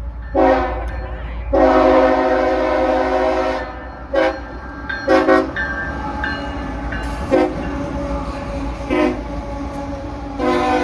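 Freight locomotive's multi-chime air horn sounding a string of blasts: a short toot, a long blast of about two seconds, four more short toots, then another long blast starting near the end. A steady low rumble of the moving train runs underneath.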